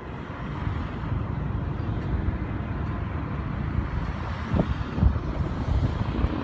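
Low, steady rumble of a passing heavy vehicle, with two short thumps about four and a half and five seconds in.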